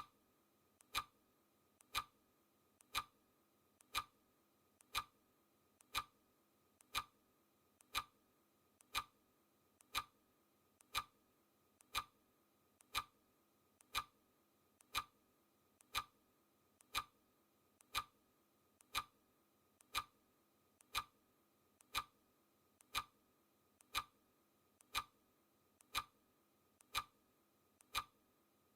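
Clock ticking, one crisp tick a second, each with a fainter click just before it.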